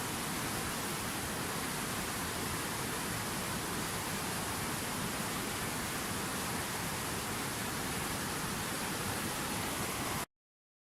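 Steady, even rushing noise with no distinct events, which cuts off abruptly to silence near the end.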